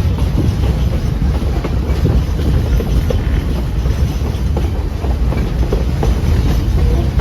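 Passenger train running along the track: a steady low rumble with scattered short clicks from the wheels and cars.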